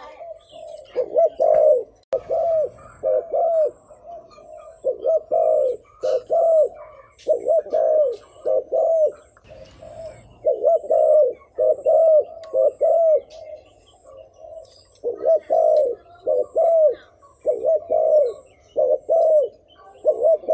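Spotted dove cooing in a quick series of short, arched coos in pairs and threes, repeated again and again with brief pauses. This is the rapid 'thúc gù' cooing used as a decoy call to rouse wild doves.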